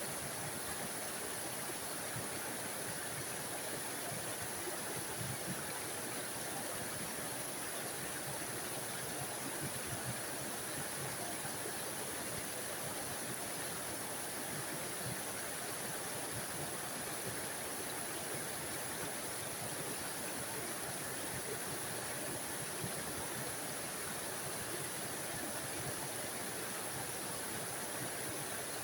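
Small forest waterfall: a steady, even rush and splash of falling water.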